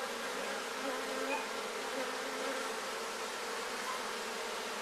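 Honey bees in an open hive buzzing, a steady, even hum of many bees at once.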